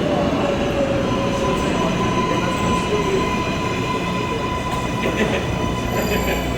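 New York City subway train running: a loud, steady rumble with a thin, steady high whine above it.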